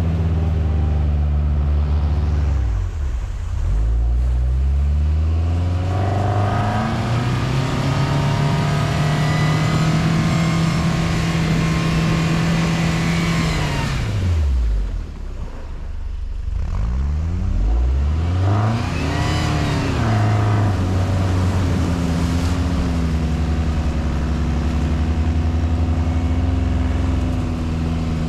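T-REX quad bike engine running under a changing throttle as it is ridden: the pitch falls a few seconds in, climbs and holds high, drops sharply about fifteen seconds in, then swells and settles again.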